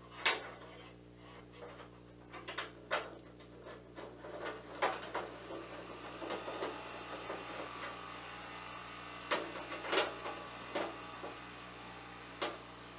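Scattered light clicks and knocks of small metal parts and screws being handled while fitting the handle holder of the snow machine, about ten in all, over a steady low hum.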